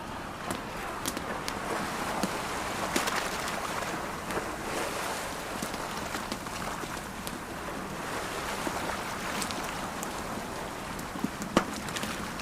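Campfire crackling with scattered sharp pops over the steady wash of sea waves.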